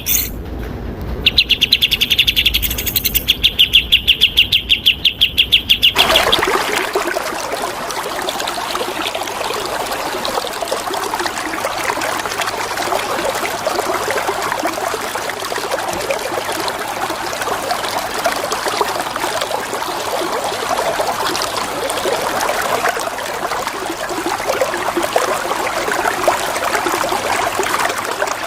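A songbird singing a fast run of repeated sharp chirps, cut off about six seconds in. Flowing water then fills the rest as a steady rushing sound.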